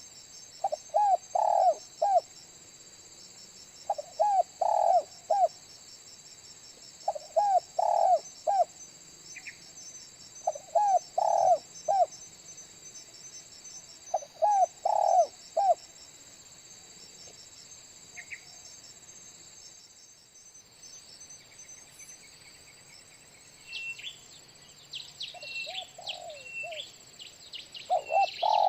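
Spotted dove (tekukur) cooing: a short phrase of several low coo notes, repeated five times about every three and a half seconds, then a pause and quicker phrases near the end. It is the lure dove's call used to draw wild spotted doves in, over a steady high insect drone and a few chirps.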